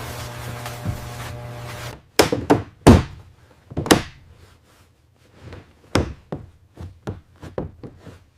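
A steady hum that cuts off about two seconds in, then a run of irregularly spaced sharp knocks and thunks, about a dozen, the loudest about three seconds in, from hard objects being struck or set down during construction work.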